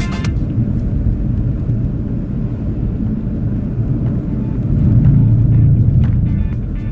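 Low, steady road and engine rumble of a moving car, heard from inside, swelling a little about five seconds in.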